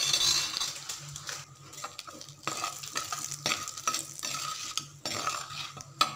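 Spice powders hitting hot oil in a clay pot, with a loud burst of sizzling at the start. A steel spoon then stirs and scrapes against the pot, making repeated short clinks and scrapes over a softer sizzle.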